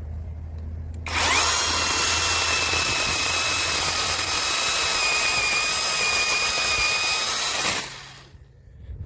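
Yovot electric chainsaw running: the motor spins up with a quick rising whine about a second in, runs at a steady high-pitched whine for about six and a half seconds, then winds down near the end.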